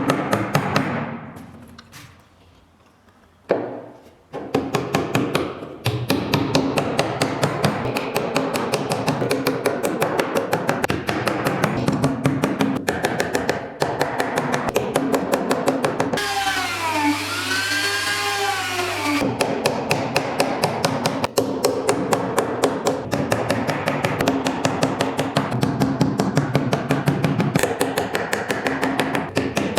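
Rapid, even strokes of a hand tool working wood, several a second, after a short quiet stretch near the start. Around the middle the strokes give way for a few seconds to a tone that rises and falls in repeated arcs.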